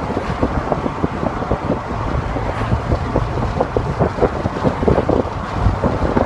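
Wind buffeting the microphone inside an open-top C7 Corvette cruising at about 60 mph, a loud, steady rumble with rapid flutter. The car's running and road noise are underneath.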